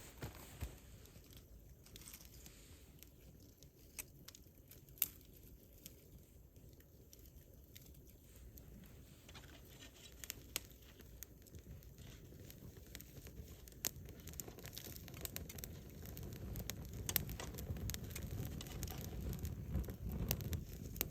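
Wood campfire burning, with scattered sharp crackles and pops from the burning wood. A low rumble builds in the second half.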